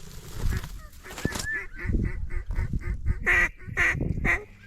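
Duck quacking: a quick run of short quacks, about four a second, then several louder, longer quacks.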